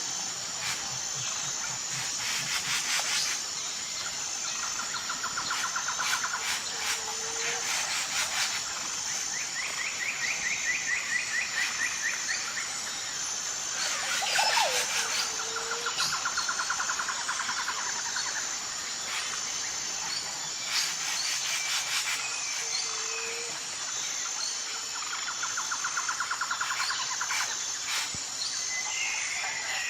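Tropical rainforest ambience: several birds calling, with rapid trills lasting a second or two and a short low note repeating about every eight seconds, over a steady high pulsing insect drone and bursts of rapid clicking calls.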